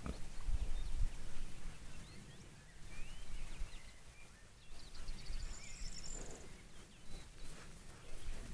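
Outdoor ambience with a few short bird chirps and a brief high trill near the middle, over low rumbling noise on the microphone in the first second.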